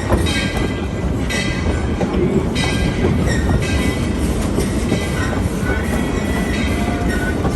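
Narrow-gauge railroad passenger coach rolling along behind a steam locomotive: a steady rumble and clatter of wheels and car body. High ringing tones come and go several times over it.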